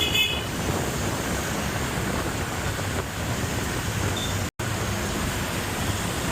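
Steady hiss of heavy rain and wind on the microphone over the noise of city rush-hour traffic, with a brief high beep right at the start. The sound drops out for an instant a little after four seconds.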